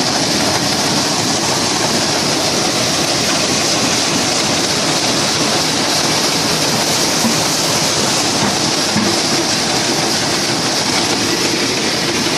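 Rice milling machine running: a loud, steady rushing clatter that never lets up.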